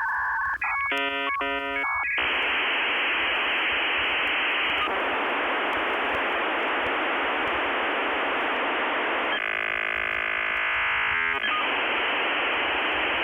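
Dial-up modem connection sound heard down a telephone line: a couple of keypad dialing tones, then a long loud hiss of line noise with a buzzing stretch of stacked tones a little before the end.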